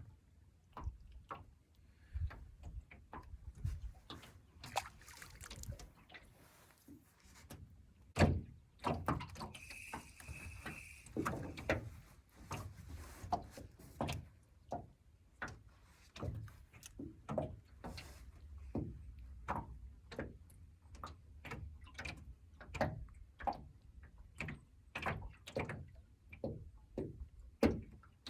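A run of light knocks and clicks, about one or two a second, with a brief hiss about ten seconds in.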